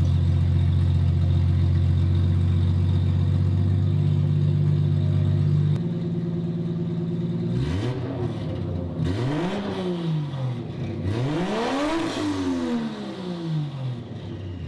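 Toyota Soarer's turbocharged 1JZ-GTE straight-six running straight-piped with the catback exhaust off, idling steadily while it warms up. About halfway through it is revved twice, the note rising and falling each time.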